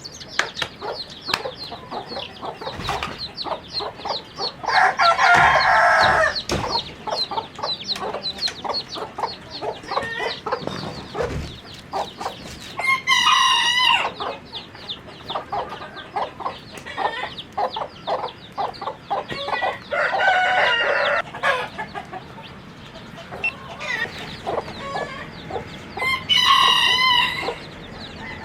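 A flock of chickens clucking steadily, with roosters crowing four times, about seven seconds apart, each crow lasting a second or so.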